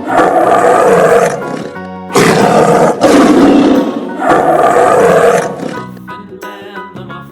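Tiger roaring, a series of long, loud roars over the first five seconds or so, with music underneath. A short musical jingle follows near the end.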